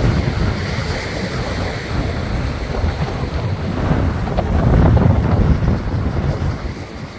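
Ocean surf crashing against a rock breakwater, with strong wind buffeting the microphone as a low rumble. The surge swells louder about four to five seconds in, then eases.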